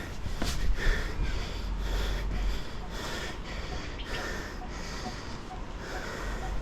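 A person breathing hard from exertion while climbing a steep, rocky trail, one heavy breath every second or two. Wind rumbles on the microphone.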